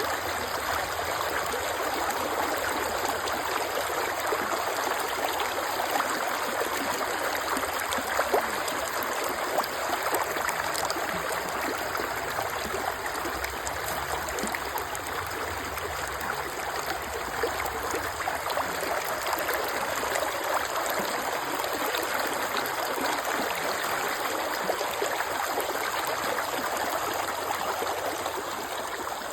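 Creek water flowing and trickling steadily, a constant rush of running water with small splashes and gurgles.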